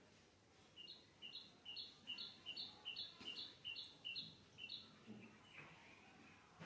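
A bird calling faintly: a two-note chirp, a lower note stepping up to a higher one, repeated about ten times at two or three a second, then stopping.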